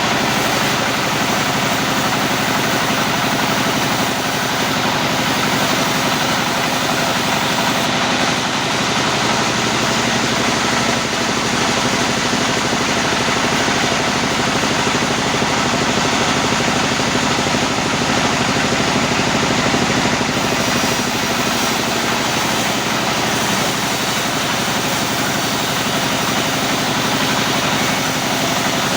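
Sawmill machinery running steadily, with a continuous engine-like drone and dense mechanical noise. The high hiss thins out for a stretch from about a third of the way in to two-thirds through.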